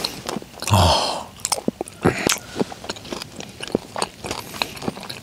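A person chewing a mouthful of smoked pork wrap close to a clip-on microphone: irregular wet mouth clicks and smacks, with a short louder mouth sound about a second in.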